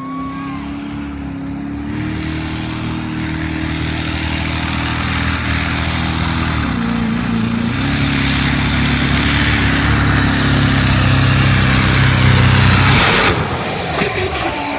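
Diesel pickup truck pulling a weight-transfer sled. The engine runs hard under full load and grows steadily louder over about 13 seconds, with a high steady turbo whistle. Near the end the throttle comes off, the engine note drops and the whistle falls away.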